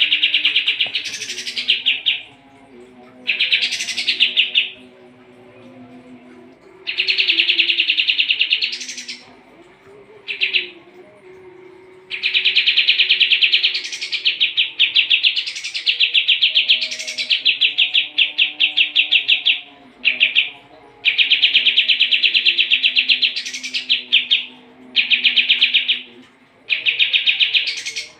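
Kapas tembak bulbul singing a fast, rattling chatter in bursts of one to several seconds with short pauses, many bursts topped by a brief high upward sweep.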